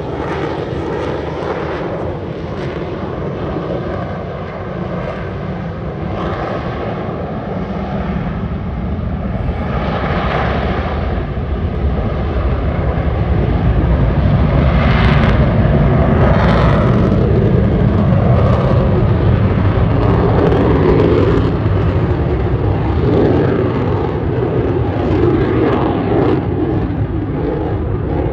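Dassault Rafale C fighter jet's twin Snecma M88 turbofans: a loud, continuous jet rumble and roar as it flies past, swelling louder from about halfway through, then easing a little near the end.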